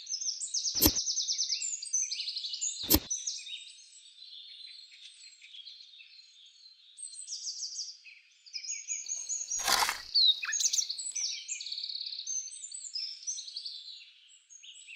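Birds chirping and trilling continuously, broken by sharp clicks or knocks: one about a second in, another about three seconds in, and a heavier one about ten seconds in.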